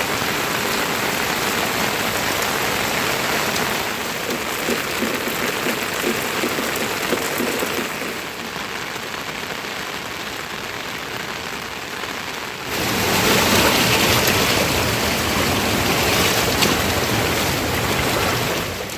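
Steady rain falling, a dense even hiss; it turns louder and brighter about two-thirds of the way through.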